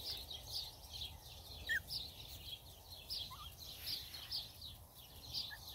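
Birds chirping outdoors: a short high chirp repeated about twice a second, with a few brief sliding whistle notes mixed in.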